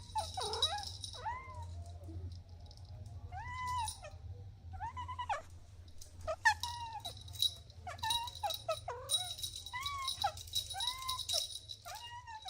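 Kittens meowing over and over: about a dozen short, high meows, each rising and falling in pitch. A light jingling rattle comes and goes behind them, loudest in the second half.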